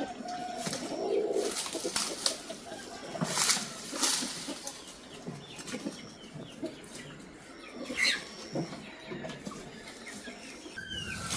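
Intermittent rustles and knocks, the loudest about three and four seconds in, with birds chirping briefly around eight seconds and near the end.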